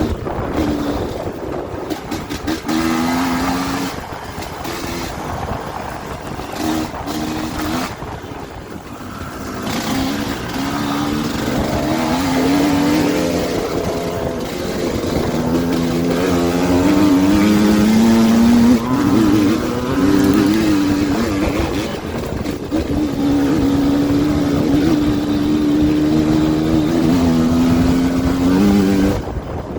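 Dirt bike engine running and revving, its pitch rising and falling as the throttle opens and eases off. It grows louder after about ten seconds and drops away just before the end.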